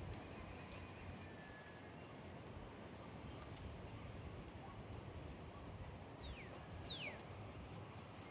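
Faint outdoor background with a low rumble, and a bird giving two quick whistles that each slide steeply downward, about six and seven seconds in.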